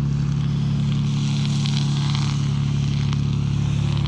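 Canal narrowboat's diesel engine chugging steadily at low speed as the boat passes close by.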